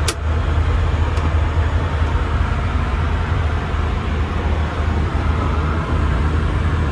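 Steady in-flight cabin noise of an Airbus A319 at cruise: a deep, even engine-and-airflow hum with a hiss of rushing air over it. A short click right at the start.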